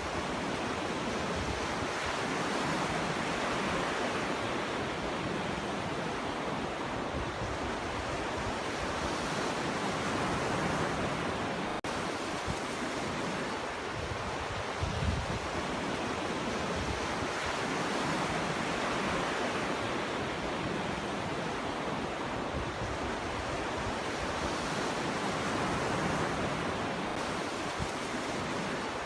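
Ocean waves breaking on a beach: a continuous wash of surf that swells and falls back every few seconds. A low gust of wind buffets the microphone about halfway through.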